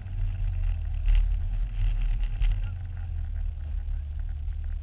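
Small engine of a Promotive R1 mini pocket bike running, with a steady low drone and uneven loudness; it has a fault the owner cannot identify.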